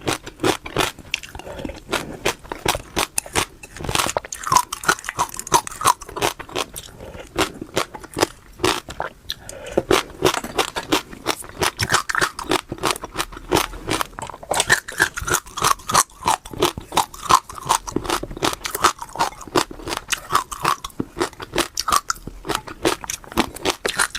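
Close-up mouth chewing of crunchy food: a dense run of rapid, crisp crunches and crackles.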